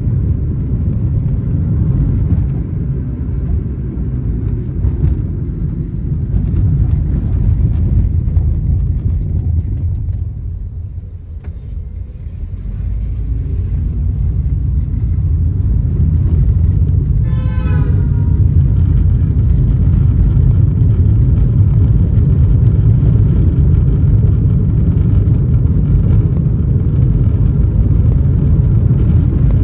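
Loud, steady low rumble of road vehicles, easing off briefly around 11 seconds before building back up. A short pitched sound cuts through about 17 seconds in.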